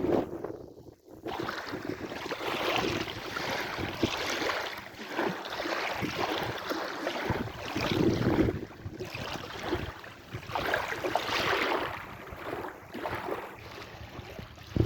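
Sea waves washing ashore, rising and falling in surges every few seconds, with a brief lull about a second in.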